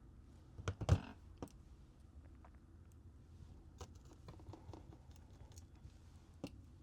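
Small clicks and taps of phone parts and hand tools being handled during reassembly of a smartphone, with a quick cluster of louder knocks about a second in and scattered lighter clicks after.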